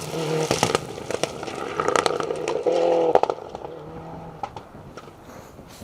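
Rally car engine revving hard as the car drives off along the stage, with a strong burst of revs about three seconds in and sharp crackles and clicks over it, growing fainter toward the end.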